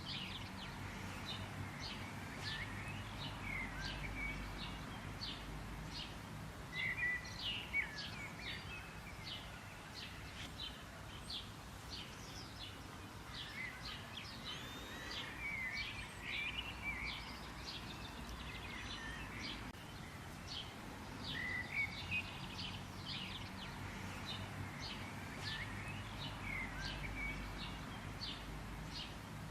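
Birds chirping: many short, high chirps and twitters in quick succession, with a brief warbling phrase that comes back every five or six seconds, over a faint low background rumble.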